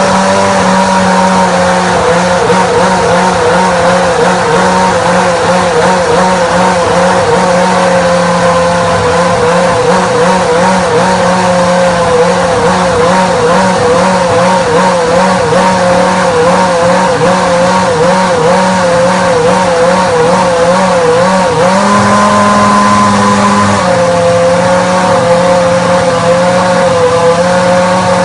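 2001 BAR Honda Formula 1 car's V10 engine running at a high, steady idle, its pitch wavering slightly. About three-quarters of the way through, the engine speed rises briefly for about two seconds, then settles back.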